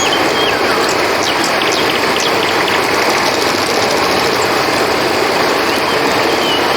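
Steady rushing of a flowing river, with short, high cricket calls repeating over it and a few brief chirps around the middle.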